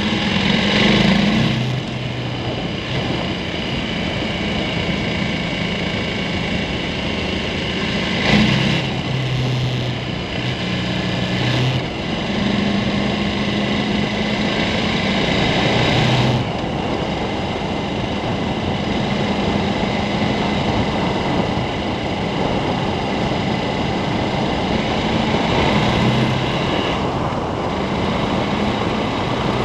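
KTM 1290 Super Adventure's V-twin engine running under way, with wind and road noise. The engine note steps up and drops several times as the throttle opens and closes.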